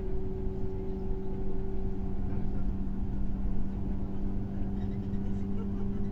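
Running noise inside a JR 103 series EMU motor car (MoHa 103-385) with MT55 traction motors: a steady hum over a constant low rumble of wheels on rail, the higher of two hum tones fading about two seconds in.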